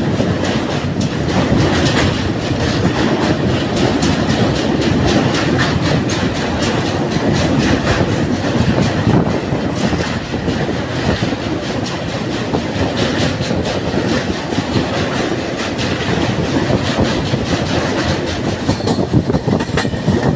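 Passenger express train running at speed, heard from on board as its coaches cross a steel truss railway bridge and run onto plain track near the end. The wheels on the rails make a loud, steady rumble with a rapid clatter of clicks over the rail joints.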